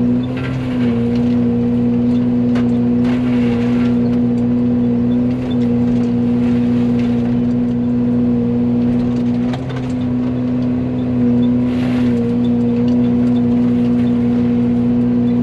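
Yanmar excavator with a Fecon forestry mulcher head running hard, a steady engine and hydraulic drone whose pitch sags briefly a few times as the spinning head takes load. Short bursts of grinding come as the head chews into brush and stems.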